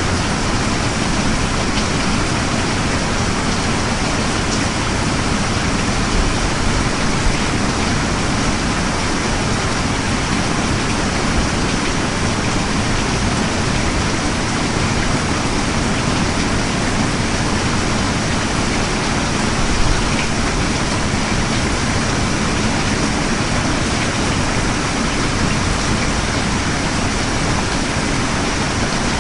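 Steady rain falling: a constant, even hiss of rainfall with no breaks.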